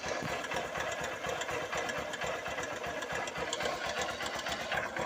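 Honda CG 150 Titan's single-cylinder engine idling with a fast, steady metallic rattle, like iron knocking on iron. It comes from a slack cam chain slapping against the engine casing.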